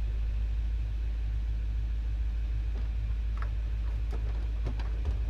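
Pickup truck driving slowly, a steady low rumble throughout, with a few light clicks or rattles in the last couple of seconds.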